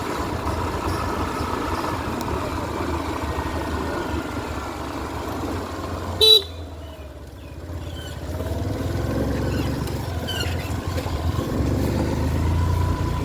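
Wind and road noise on a helmet-mounted phone while riding a scooter, with one short vehicle horn toot about six seconds in; the low rumble grows louder in the later part.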